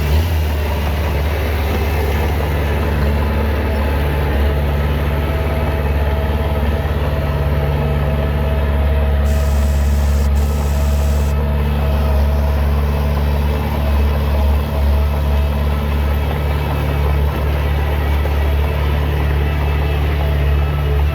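Diesel engine of heavy earthmoving machinery running steadily at one low pitch.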